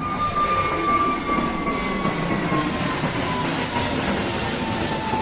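Jet airliner engines running loudly as the aircraft passes, with a high engine whine that falls slowly in pitch as it moves away.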